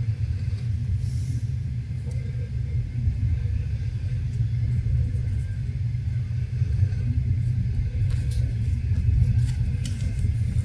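VR sleeper train running along the track: a steady low rumble, with a few light clicks and rattles in the last few seconds.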